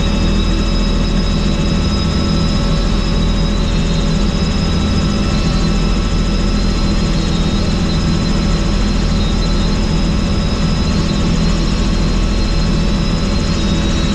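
Helicopter engine and rotor running steadily: a high whine held over a continuous low drone.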